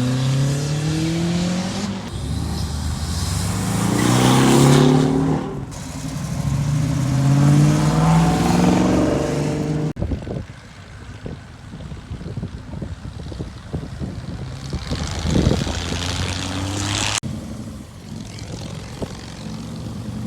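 Car engines accelerating hard away, the pitch climbing and dropping back at gear changes, twice in the first half. After an abrupt change about halfway, a quieter, lower engine rumble follows, briefly louder near the end.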